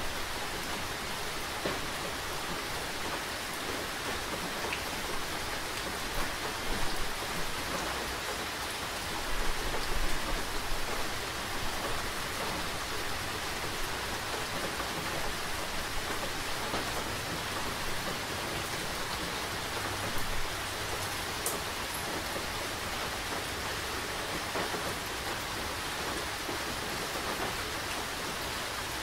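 Steady rain falling, with a few brief louder swells about a quarter and a third of the way in.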